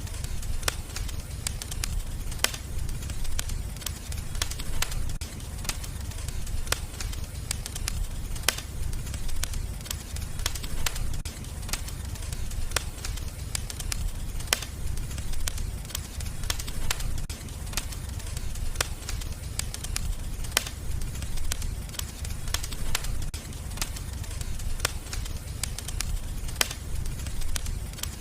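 Wood fire in a fireplace crackling, with frequent sharp pops and snaps at irregular intervals over a steady low rumble of the flames.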